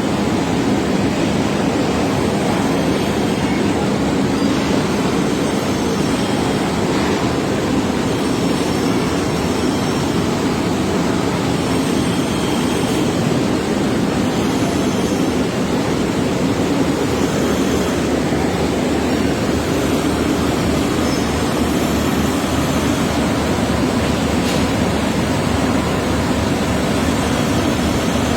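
Large ABB 500 HP electric motor running steadily on a test run after rewinding, a loud even hum and rush of cooling air.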